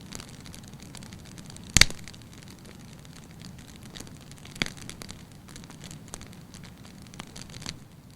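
Wood fire burning in a fireplace, crackling steadily with scattered small snaps and a sharp loud pop about two seconds in, then a smaller pop a little past the middle.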